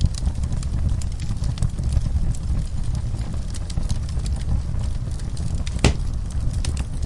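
Wood fire in a fireplace crackling, with frequent small pops over a low steady rumble of the burning logs, and one louder pop about six seconds in.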